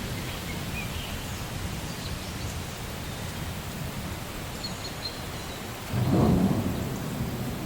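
Steady rainforest rain with a low thunder rumble beneath it; a louder roll of thunder swells about six seconds in and fades within a second or so. A few faint bird chirps sound above the rain.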